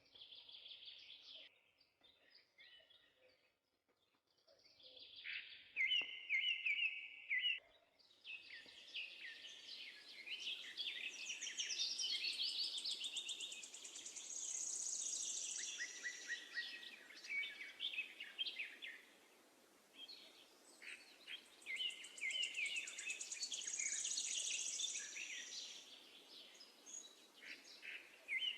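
Sparrows chirping: scattered chirps at first, then from about eight seconds in a dense, overlapping chatter of many chirps over a steady background hiss.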